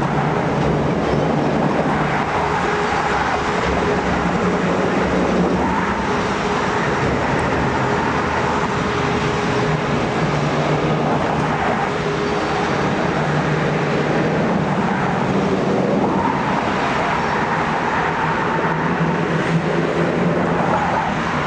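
Amtrak passenger train passing on the tracks over a steel bridge: a steady rumble of wheels on rail with the low drone of a diesel locomotive's engine.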